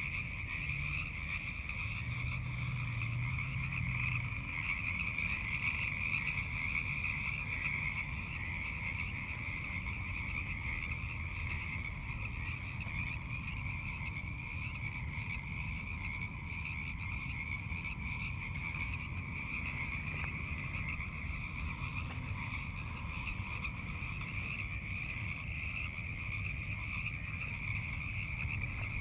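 Dense chorus of many frogs calling at once, a steady, high-pitched massed trilling that never lets up.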